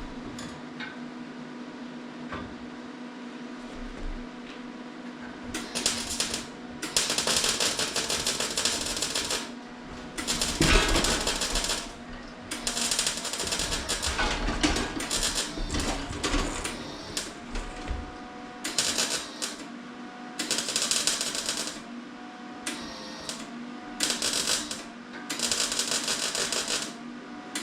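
MIG welder arc crackling in bursts of one to three seconds with short pauses, starting about six seconds in, over a steady hum.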